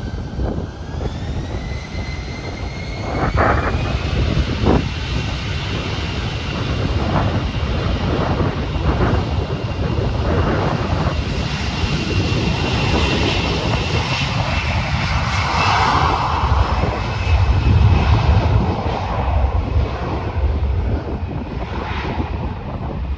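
Jet airliner engines spooling up, a whine rising in pitch over the first few seconds and then holding steady over a loud rumble, as the aircraft goes to takeoff thrust.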